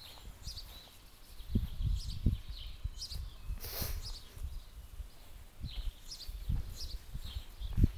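Birds chirping in short repeated calls, about one a second, over irregular low thuds and rumbling close to the microphone, with a brief rustling hiss near the middle.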